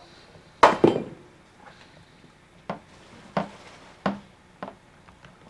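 A string of separate knocks and clacks, like hard objects being handled and set down, with the loudest two close together about half a second in and then fainter single knocks about once a second.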